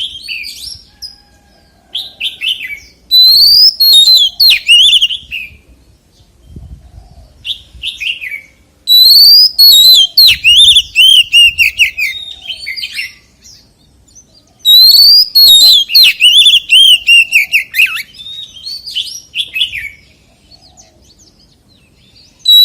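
Oriental magpie-robin singing: loud phrases of quick, rising-and-falling whistled and warbled notes, in bursts a few seconds long with short pauses between.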